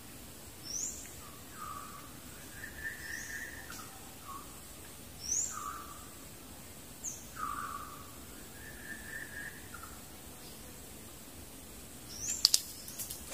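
Forest birds calling: short high-pitched rising whistles repeated every couple of seconds, with lower, longer whistled notes between them. A few sharp clicks come near the end.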